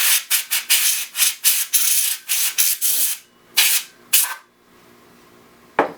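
A rapid series of short, scratchy rubbing strokes inside an open PC case, about three a second for the first three seconds, then a few more spaced out.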